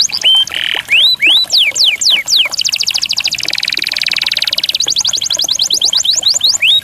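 Songbird singing a varied song of quick whistled notes that sweep up and down in pitch, broken about two and a half seconds in by a fast rattling trill lasting about two seconds, then more sweeping whistles.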